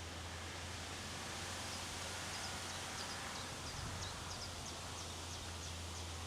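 Strong wind blowing steadily, with a low rumble on the microphone. From about two seconds in, a small bird gives a run of short, high chirps, about two or three a second.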